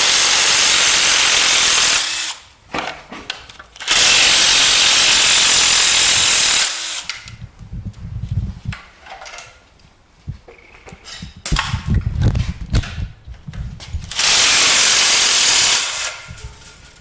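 A power tool running in three steady bursts of a few seconds each, cutting off sharply each time, with knocks and clunks of parts being handled in the gaps.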